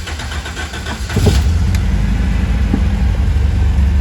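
1965 MGB's 1.8-litre four-cylinder engine starting up. It gets louder and settles into a steady low running note about a second in, through its newly finished exhaust.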